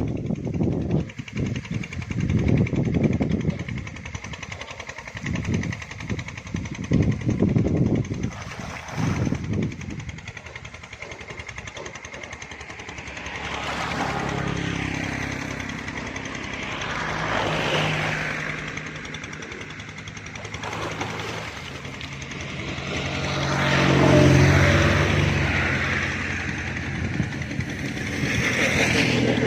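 Motor vehicles passing one after another on a road, each swelling and fading with a sliding engine pitch as it goes by; the loudest passes about two-thirds of the way through. Before them, for about the first ten seconds, there is irregular low rumbling.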